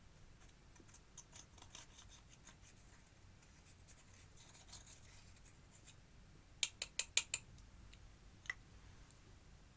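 Clear slime and makeup being worked by hand: faint crackling and scratching, then a quick run of five sharp clicks past the middle and one more click shortly after.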